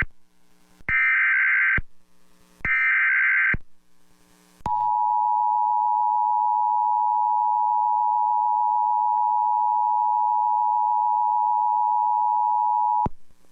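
Emergency Alert System header on a radio broadcast: two short bursts of digital SAME data tones, then the two-tone attention signal. The attention signal is a steady dual tone held about eight seconds before it cuts off abruptly. It signals a National Weather Service severe thunderstorm warning.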